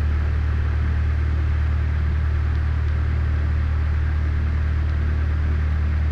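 Cessna 152's four-cylinder Lycoming engine and propeller running steadily at low power, heard from inside the cockpit as a constant low drone.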